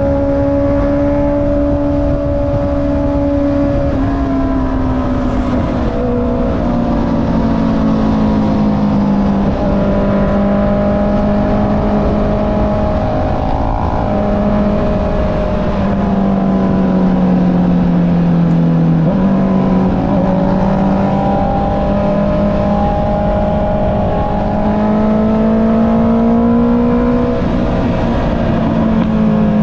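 Honda CB650R's inline-four engine through an Akrapovic exhaust, running under way at a moderate, varying pace: the engine note drifts up and down, with a few dips and rises in pitch as the throttle is eased and opened.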